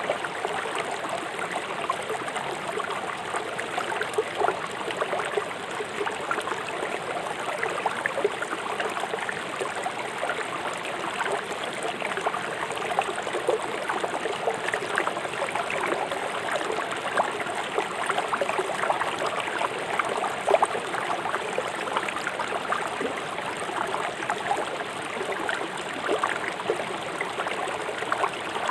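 A river flowing fast over stones, a steady rushing with constant small splashes and gurgles.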